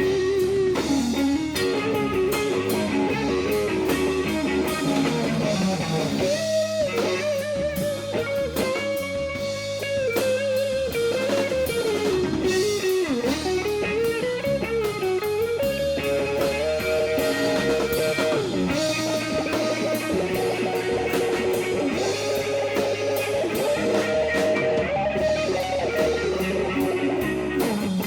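Blues band playing an instrumental passage: an electric guitar leads with bent, wavering notes over a steady bass line and drum kit.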